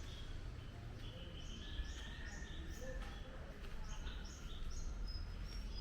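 Birds chirping, short high calls repeating a few times a second over a steady low rumble.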